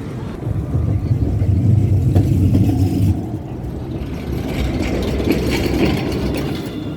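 A tram passing, its low rumble swelling over the first few seconds, then easing into a lighter, higher-pitched running noise.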